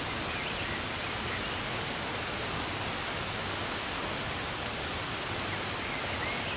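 Steady rush of running water, with a few faint, short bird chirps in the first second or so and again near the end.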